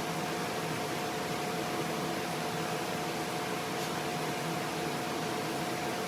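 A steady machine hum with an even hiss and a constant mid-pitched whine, like a fan or motor running without change.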